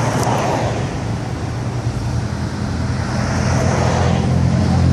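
Classic cars' engines running as they roll past in a line, a steady low engine rumble with road noise that swells again near the end.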